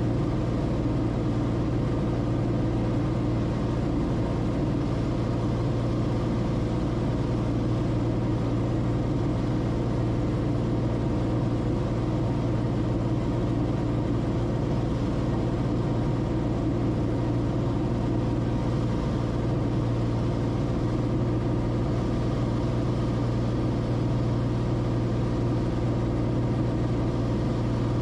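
Steady cabin drone of a Cessna Corvalis TTX in flight: its turbocharged six-cylinder Continental engine and propeller running at constant power, with no change in pitch or level.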